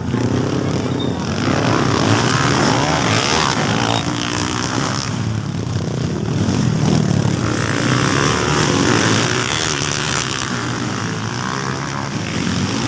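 Motocross dirt bikes racing, their engines revving, rising and falling in pitch as the bikes accelerate and pass.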